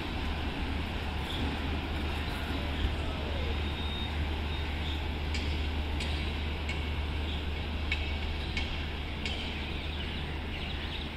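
AC double-decker express train pulling away from the platform, a steady low rumble and hiss with faint regular clicks about every two-thirds of a second in the second half, like wheels passing over rail joints.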